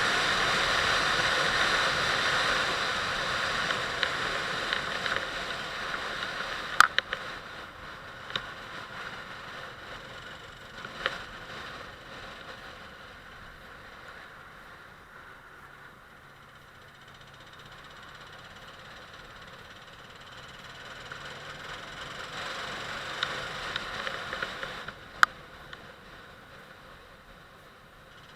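Rushing wind and road noise from a moving vehicle, with a faint engine underneath. It fades over about fifteen seconds, swells again and drops off near the end, with a few sharp clicks.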